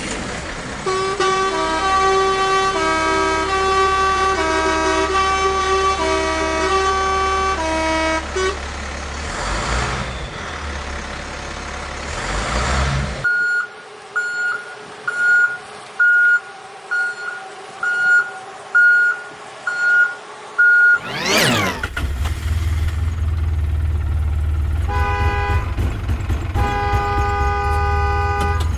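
A string of vehicle sounds. First comes a tune of horn-like tones alternating between two notes over a low engine rumble, then a rising engine noise. Next is a steady run of about ten reversing beeps, a little over one a second. After a swish, a low engine rumble returns with several horn blasts near the end.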